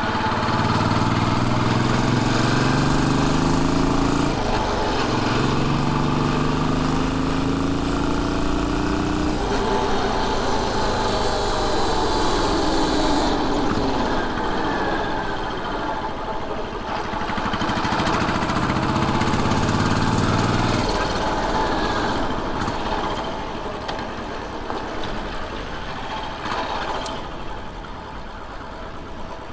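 Royal Enfield Bullet 500's air-cooled single-cylinder engine under way on the road. It accelerates through a gear change, with the pitch dropping at the shift about four seconds in, and climbs again. It eases off, accelerates once more, then slows and gets quieter near the end.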